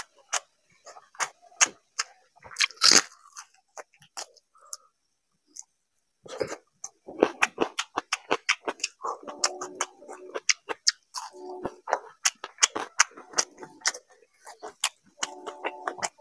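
Close-miked eating sounds of someone eating soaked rice by hand: wet chewing and lip-smacking with many quick clicks, and fingers squishing water-soaked rice in a steel plate. There is a short lull about four seconds in.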